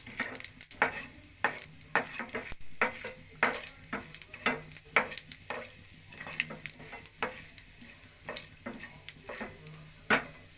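Chana dal frying in hot oil and ghee in a non-stick pan, with a steady sizzle and many irregular sharp clicks and pops as the seeds spit and a wooden spatula stirs and scrapes the pan.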